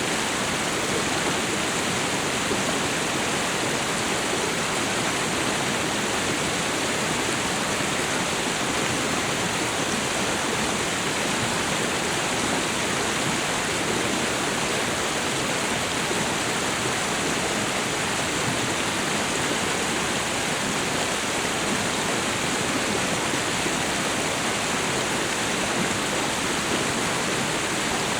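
Waterfall and river water rushing in a steady, unbroken roar of falling and flowing water.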